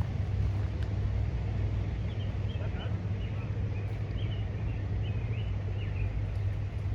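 Steady low rumble under a bird's quick run of short chirping notes, about two to six seconds in.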